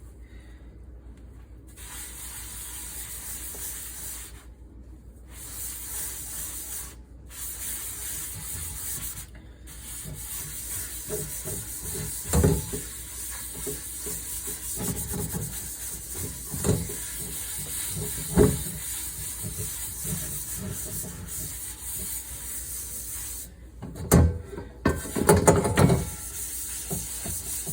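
Water running hard into a sink as dishes are washed, with scrubbing and several sharp clanks of cookware knocking together, loudest near the end.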